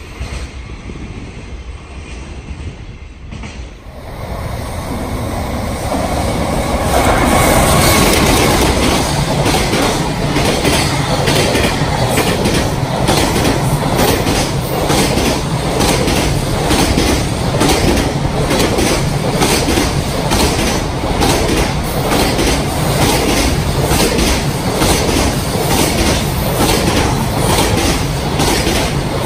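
The fading rumble of a just-passed train, then from about four seconds in a long container freight train passing close by, loud from about six seconds on. Its wagon wheels clack over the rail joints in a steady, repeating rhythm.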